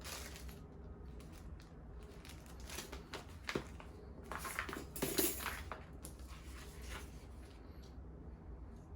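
Handling noises: irregular rustling with light clicks and knocks, busiest in the middle.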